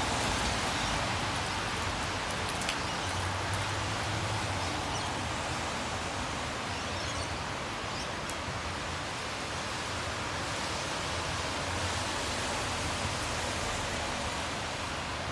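Steady hiss of rain with a low rumble of road traffic underneath, swelling a few seconds in and again past the middle, and a few light ticks near the start.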